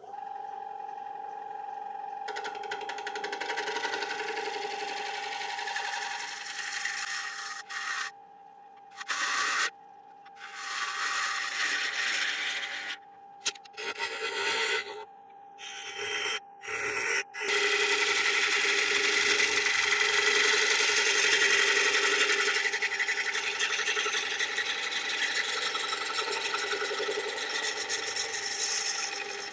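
Wood lathe running with a steady whine while a turning tool cuts into a large, very dry yew bowl's rim, a rough shaving hiss. The cutting comes in short passes with breaks in the middle, then runs in one long continuous cut over the last third.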